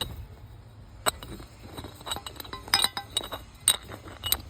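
Light metallic clinks of aluminium parts being handled and knocked against each other: a handful of sharp, ringing taps at uneven intervals.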